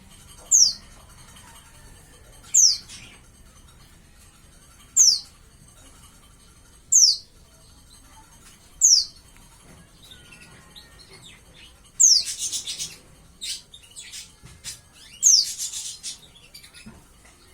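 Young white-eye (pleci), about five months old and just beginning to sing, giving a high, thin call that slides downward, repeated about every two seconds. Twice, past the middle, it breaks into a longer, rougher chattering burst.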